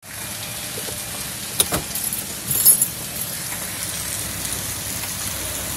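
Heavy rain pouring down in a steady hiss. A couple of sharp clicks come in under two seconds in, and a brief high clatter shortly after.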